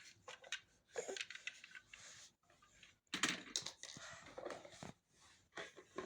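Irregular clicks, taps and knocks of plastic toy washing machines being handled, with some rustling between the clicks.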